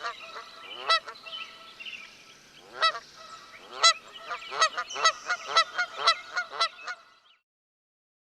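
Geese honking: a series of short calls, a few spaced ones and then a quicker run, ending about seven seconds in.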